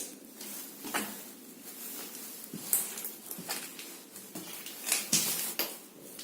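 Footsteps of someone walking through an empty building, a run of irregular scuffs and crunches on a gritty floor.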